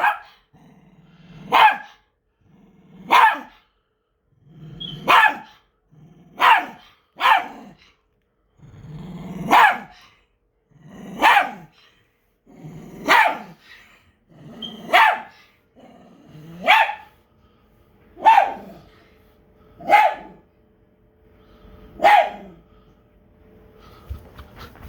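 A dog barking single barks, about thirteen of them, one every one and a half to two seconds, with a low growl running into some of the barks.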